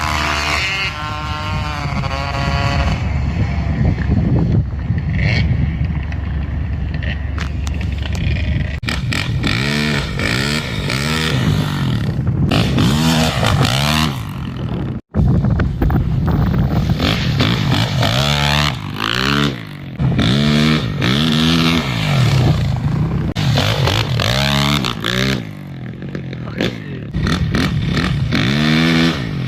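Dirt bike engines revving up and down, rising and falling in pitch again and again as the bikes accelerate and shift, with a very short drop-out about halfway through.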